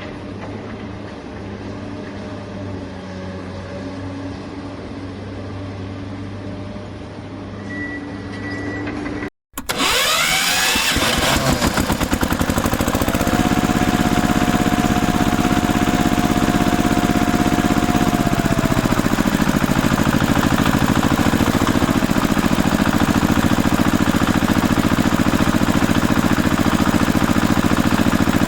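Engine sound from toy vehicles. It is steady at first, breaks off briefly about nine seconds in, and then comes back louder, starting with a quick rising whine and settling into a steady running sound.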